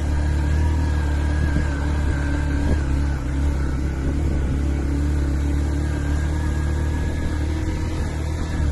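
Motorcycle engine running steadily under load, climbing a steep, rough road.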